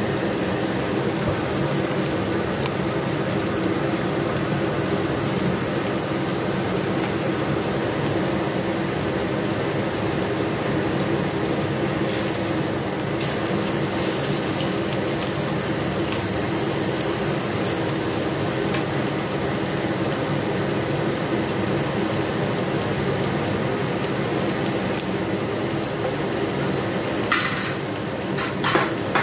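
Bell peppers and mushrooms cooking in an aluminium wok over a gas flame, with a steady hiss of sizzling and steaming. Near the end come a few sharp knocks.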